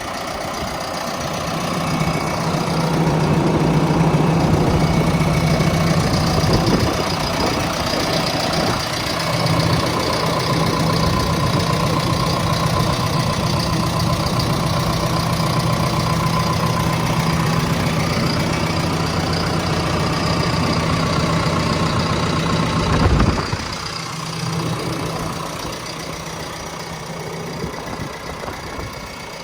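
John Deere 6115D tractor's diesel engine running steadily at idle. A short loud knock comes about three quarters of the way through, after which the engine sounds quieter.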